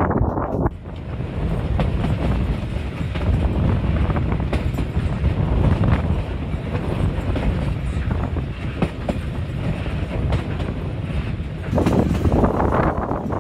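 TAZARA passenger train rolling along the track: a steady low rumble of wheels on rails with scattered clicks over the rail joints. Near the end the noise turns brighter and harsher.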